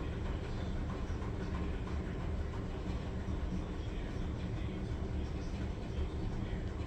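Maytag Bravos MCT top-load washer running during its rinse phase, a steady low mechanical rumble with faint ticking.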